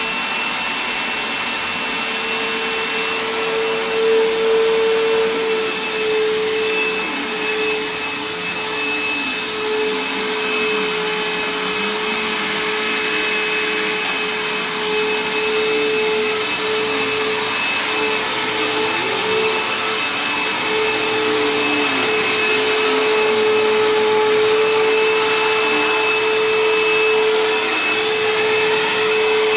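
A Bissell CleanView Helix bagless upright vacuum cleaner running continuously with a steady motor whine. It is running without its HEPA filter, which the owner says makes it sound a little different.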